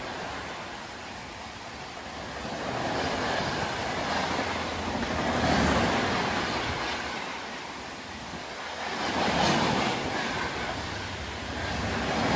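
Express train passing at speed: a steady rushing noise of wheels and coaches that swells and eases several times.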